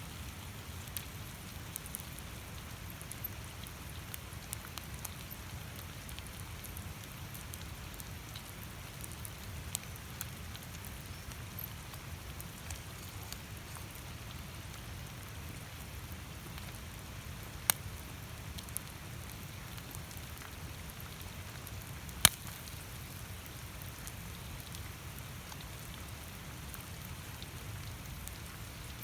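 Wood fire crackling steadily, with scattered small pops and two sharp loud snaps in the second half.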